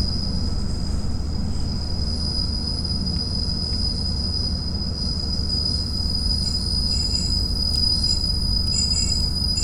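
KiHa 48 diesel railcar heard from inside, running with a steady low rumble of engine and wheels on rail. A steady high-pitched squeal from the running gear sounds over it, with fainter extra squeal tones coming and going near the end.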